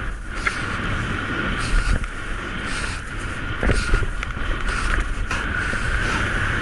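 Steady rushing noise of wind buffeting the microphone, with a constant hiss and a few short knocks.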